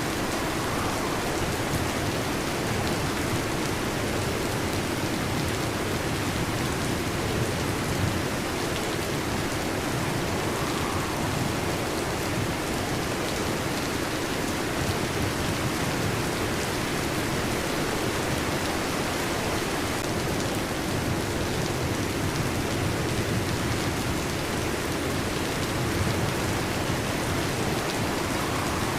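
Steady heavy rain falling, a dense even patter with no distinct breaks or claps of thunder.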